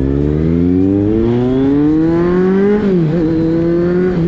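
Sport motorcycle engine accelerating, its pitch climbing steadily, then dipping sharply about three seconds in as it shifts up and holding steady after.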